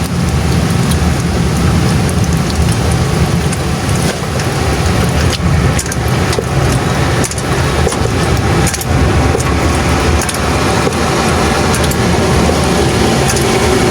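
Steady low rumble of a running vehicle engine, with scattered sharp clicks and knocks over it.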